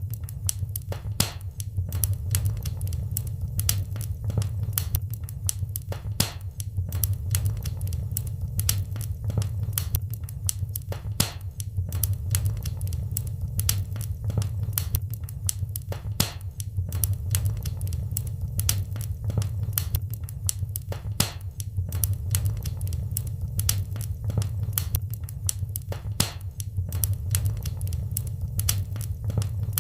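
Wood fire in a fireplace crackling: many irregular sharp pops and snaps, several a second, over a steady low rumble.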